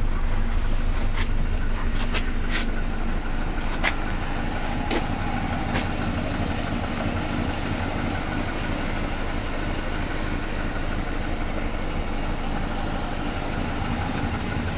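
1967 Alfa Romeo Giulia 1300 TI's twin-cam four-cylinder engine idling steadily, heard from inside the cabin, with a few short clicks in the first half.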